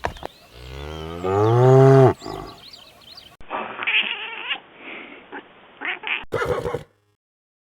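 Animal calls cut together from separate clips: a long, loud pitched call that rises and then falls in the first two seconds, then several shorter cries, then a short burst and a sudden cut to silence near the end.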